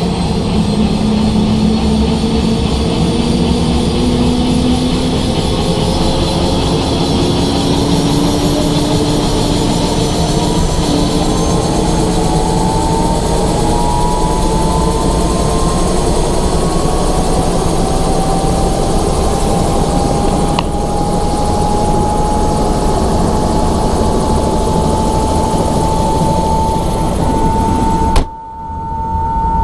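Helicopter running steadily, with a dense engine and rotor noise and a whine that slowly rises in pitch. Near the end there is a sharp click and the sound briefly drops away before it returns.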